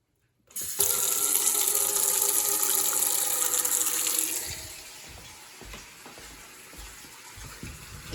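Water running hard with a steady hiss, easing off sharply about four and a half seconds in, leaving quieter low rumbles and knocks.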